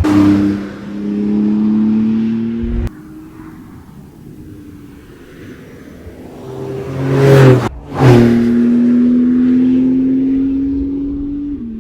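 Porsche 911 Turbo S's 3.8-litre twin-turbo boxer engine pulling under acceleration, its note rising. The sound breaks off abruptly about three seconds in, then builds again to a loud peak and drops out briefly just before the eight-second mark. It carries on with a steady, slowly climbing note that eases off near the end.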